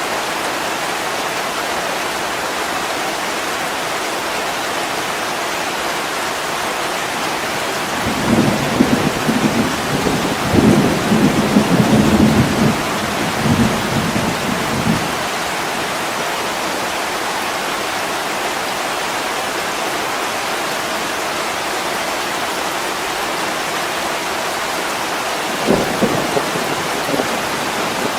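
Heavy rain pouring steadily on a window pane. A low rumble of thunder rolls for several seconds in the middle, with a shorter rumble near the end.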